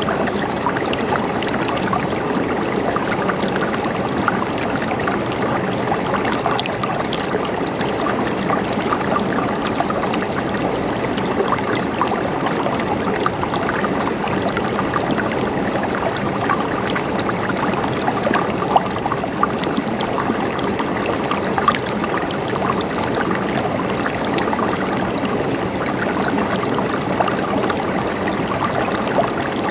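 A stream of water flowing steadily, with many small splashes and trickles through the rush.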